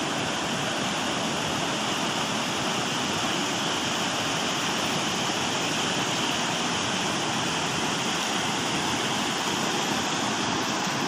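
Swollen river in flood, its water rushing steadily.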